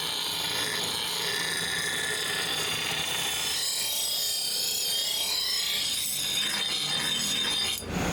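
Steady abrasive grinding of a steel knife blade, with high wavering tones through the middle and a brief drop just before the end.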